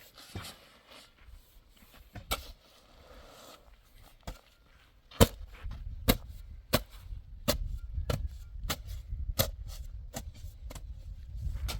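A series of sharp knocks, a few scattered at first and then about two or three a second from about five seconds in, over a low rumble: a hand tool striking hard material, as in hammering during bathroom building work.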